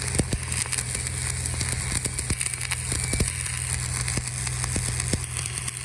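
Stick (manual arc) welding with an Oerlikon electrode: the arc crackles and spits steadily with many small pops, over a steady low hum.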